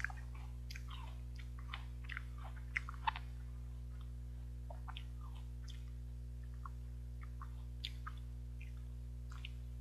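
Close-up mouth sounds of biting and chewing crisp, juicy oriental melon: irregular small wet crunches and clicks, a few sharper bites among them. A steady low electrical hum runs underneath.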